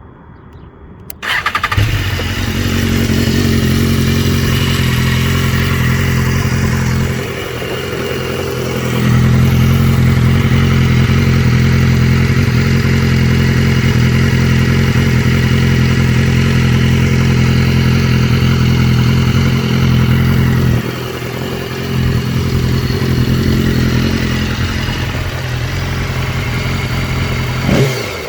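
2013 BMW S1000RR's inline-four engine, fitted with an Akrapovic exhaust, starting about a second in and catching at once. It then idles steadily, louder in the middle stretch, and a rev begins right at the end.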